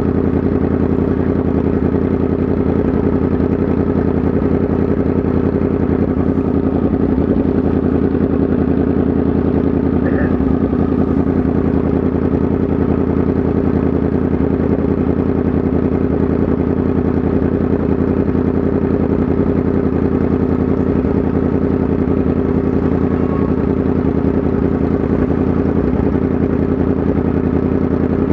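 Yamaha MT-10 SP's crossplane inline-four engine running at a steady, unchanging speed with no revving.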